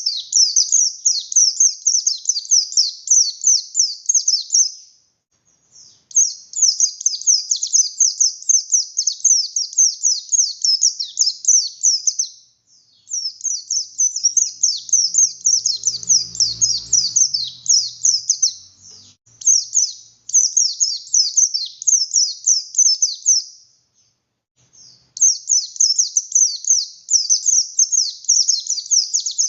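Buxtoni white-eye (pleci) singing hard: long, high, rapid twittering phrases of fast-fired notes, each several seconds long, broken by brief pauses.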